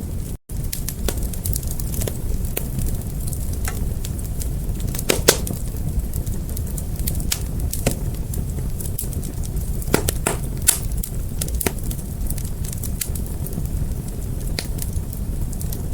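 Fire crackling: a steady low rumble of flames with scattered sharp pops, the loudest about five and ten seconds in. The sound cuts out for an instant about half a second in.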